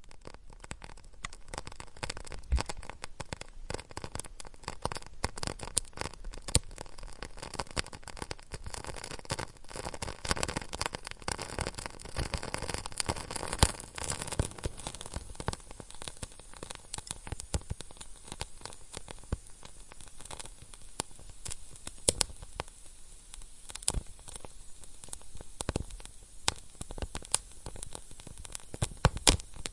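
Wood fire in a fireplace crackling, with dense irregular snaps and pops over a steady hiss, and a few louder pops scattered through.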